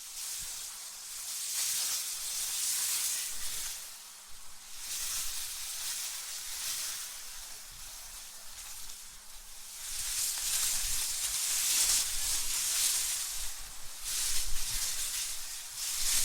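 Wind blowing in gusts: a high hiss that swells and fades several times, with a low rumble under the stronger gusts.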